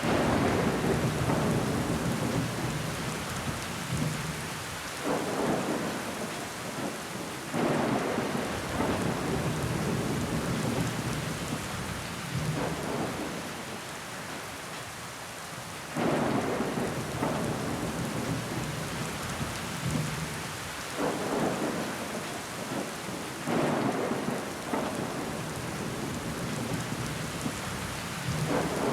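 Heavy rain pelting a window pane, a steady hiss with louder surges that swell suddenly and fade every few seconds.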